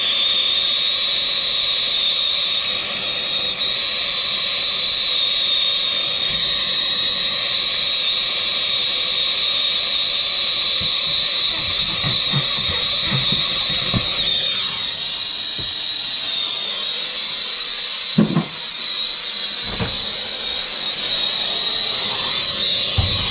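Gas soldering torch burning with a steady hiss and a high whistling tone, used on copper valve fittings. A couple of low knocks come in the second half.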